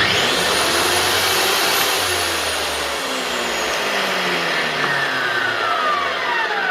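Hilti AG230S angle grinder's electric motor starting abruptly and running at full speed, then, past the middle, its whine falling steadily as it winds down. The motor works; it is run this way because the switch activator is broken.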